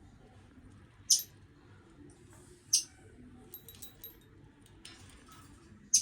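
Budgie giving three short, sharp, high-pitched chirps, about a second in, near the middle and at the end, with faint small clicks and light tinkling between them.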